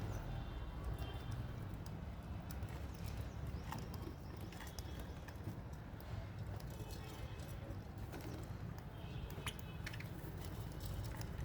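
Small aviary parrots, budgerigars and lovebirds, chirping faintly and sporadically, with scattered small clicks and taps over a steady low rumble.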